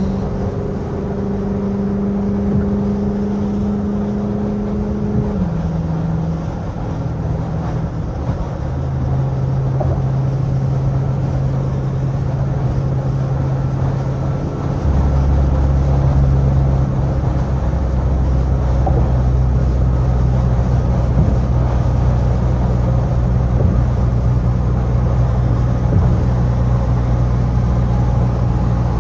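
Straight-piped Dodge Charger R/T's 5.7 Hemi V8 exhaust droning at a steady cruise. The note steps down about five seconds in, and a deeper drone joins about halfway through and holds to the end.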